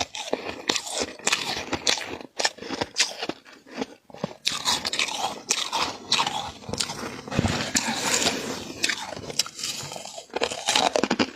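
Close-miked crunching and chewing of flaky frost scraped from a humidifier, a dense run of irregular crackly crunches with a short lull about four seconds in.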